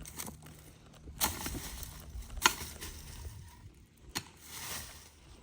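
Three sharp chopping blows of a hand tool striking into a tree root ball, spaced a second or more apart; the middle blow is the loudest.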